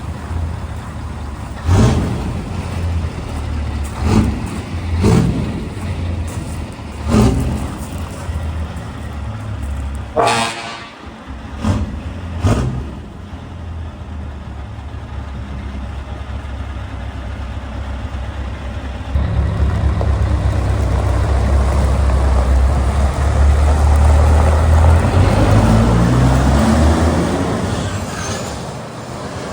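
Scania R580 truck's V8 diesel running, with short repeated bursts in the first several seconds and a horn toot about ten seconds in. From about two-thirds of the way through, the engine runs steadily much louder.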